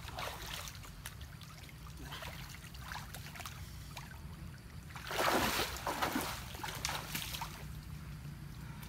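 Water splashing and sloshing in irregular bursts, with a louder, longer splash about five seconds in, over a steady low hum.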